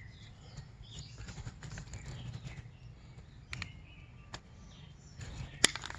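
Rustling and scattered sharp clicks of hands working plastic irrigation fittings and flexible funny pipe, with one loud click about five and a half seconds in.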